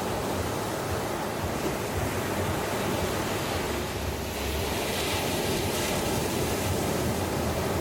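Ocean surf washing on a beach, a steady rush of waves, its hiss growing brighter a little past halfway as a wave washes in.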